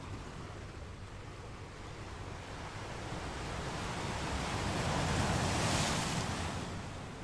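Ocean wave swelling and breaking on the shore about two-thirds of the way through, a rising wash that peaks and then recedes, over a steady low rumble of surf.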